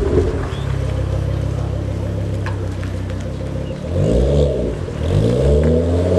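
Ford Focus RS engine through an aftermarket Mongoose exhaust and downpipe, idling and then revved twice about a second apart near the end, its pitch rising and falling each time.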